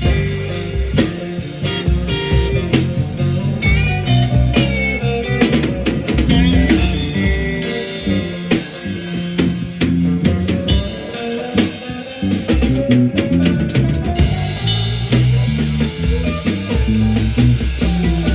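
Band playing an instrumental blues-rock passage: guitar over bass and drum kit, with a few bent guitar notes.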